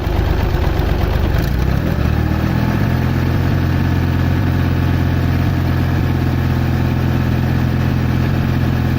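Tractor engine running steadily at a low, even pitch, cutting in suddenly at the start.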